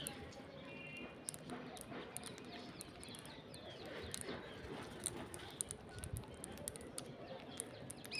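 Parrots feeding on rice: many quick, irregular clicks of beaks on grain, with a few short chirps.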